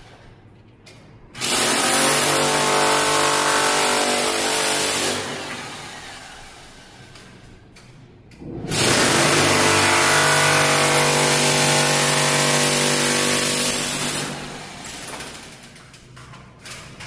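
A handheld power tool working on the stair anti-slip nosing runs twice, at a steady pitch with a high whine: once for about four seconds, then again for about five and a half seconds.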